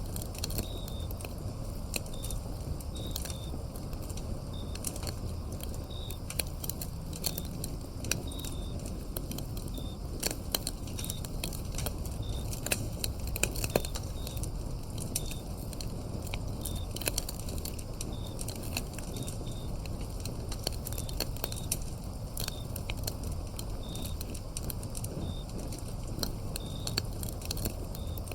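Wood fire crackling and popping in sharp clicks over a low, steady rumble of flames. Crickets chirp in short, repeated calls throughout.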